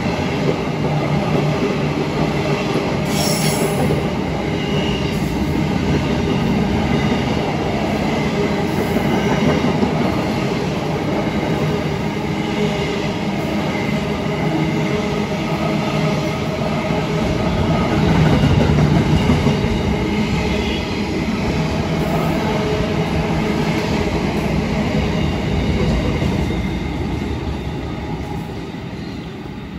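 Freight train of hopper wagons rolling past at close range: steady wheel-on-rail rumble and clatter, with a brief high wheel squeal about three seconds in. It fades near the end as the last wagons pull away.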